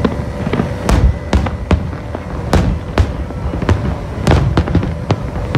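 Aerial fireworks display: a rapid, irregular series of bangs and crackling pops, several a second.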